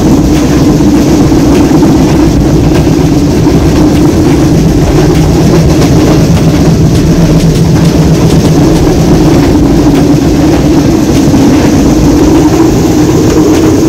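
Green Line passenger train running at speed, heard from inside the coach: a loud, steady noise with a constant low hum underneath.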